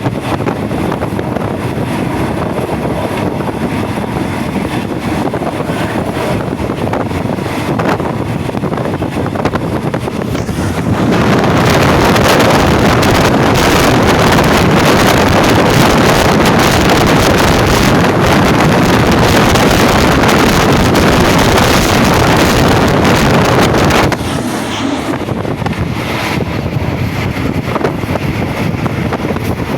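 A passenger train running at speed, heard from on board: a steady rumble and rush of the moving coach, with wind on the microphone. It gets louder about eleven seconds in and drops back near the end.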